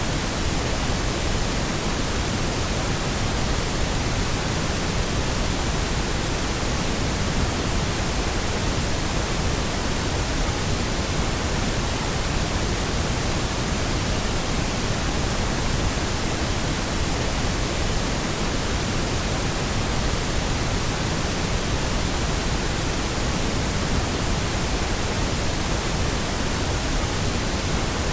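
Pink noise, a steady, unchanging hiss.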